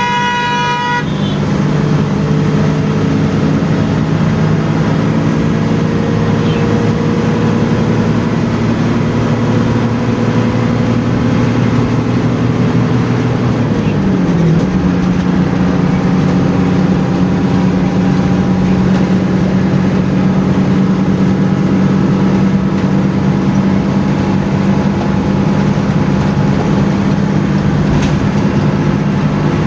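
Bus engine running on the highway with road noise. Near the start a horn toots briefly. About halfway through the engine note drops in pitch, then holds steady.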